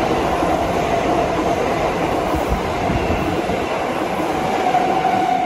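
Kintetsu electric train running past a station platform: the steady rumble of its wheels on the rails as the cars go by, with a steady whine coming up near the end.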